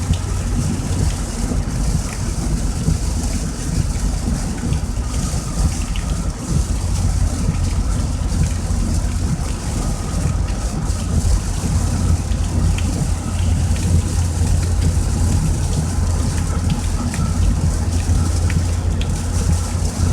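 Heavy rain drumming on a moving car, heard from inside the cabin, over a steady low rumble of road and engine noise.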